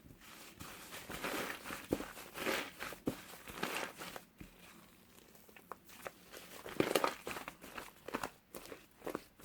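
Foam slime mixed with clay being squished and stretched by hand: irregular sticky crackling with small sharp pops, loudest about seven seconds in.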